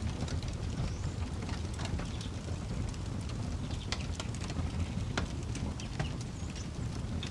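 Wood campfire crackling, with sharp irregular pops over a steady low rumble. A few faint bird chirps are heard in the background.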